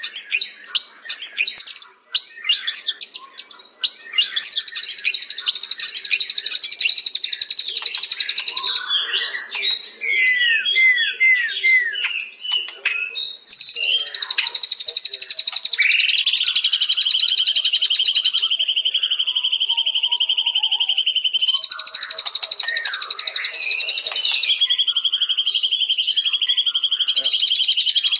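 White-rumped shama (murai batu) singing a loud, varied song: fast buzzy trills alternate with quick whistled phrases and a few long held whistles.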